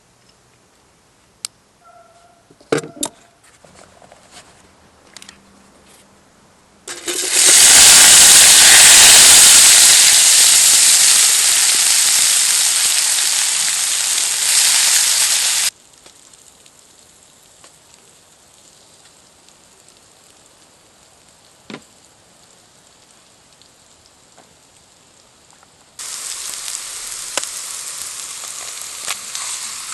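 Food frying in a hot pan over a campfire: a few light knocks, then a loud sizzle that starts suddenly about seven seconds in and cuts off abruptly some eight seconds later. Near the end a quieter, steady sizzle with small crackles begins.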